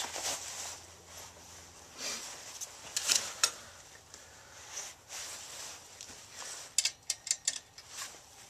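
Small metal parts being handled, with a few separate clicks, then a quick run of sharp clicks near the end from a 1/4-inch ratchet wrench loosening the nut on the waterer's counterweight.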